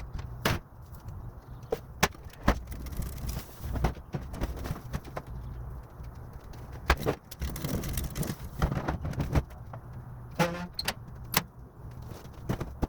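Irregular clunks and clatter of trash and old boat parts being handled and loaded, over a low steady rumble, with a short squeak or scrape near the end.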